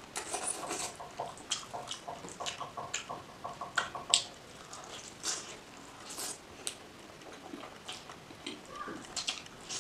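Close, wet chewing and lip-smacking of someone eating fried egg by hand, heard as a string of short mouth clicks and smacks, the sharpest about four seconds in.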